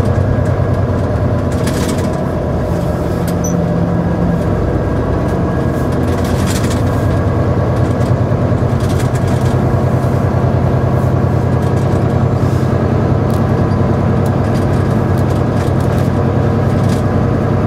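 Volvo semi truck's diesel engine running steadily as the truck drives off at low speed, a constant low hum heard from the cab, with a couple of brief knocks or rattles about 2 and 6.5 seconds in.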